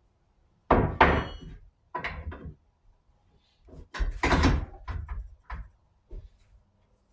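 Hard clunks and rattles of metal and plastic miter saw parts being handled and fitted, in several separate bouts, the first with a brief metallic ring.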